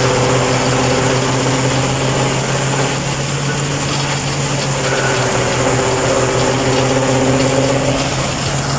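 Tractor engine running at a steady speed, driving a three-point PTO forage harvester: a constant hum with a steady whir over it.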